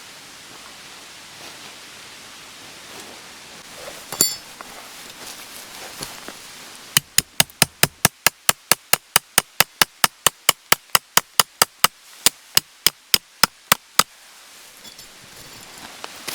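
Rapid, even hammering: about two dozen sharp knocks at roughly four a second, starting about seven seconds in and stopping abruptly after about seven seconds. Before it there is a steady hiss and a single sharp knock with a brief ringing.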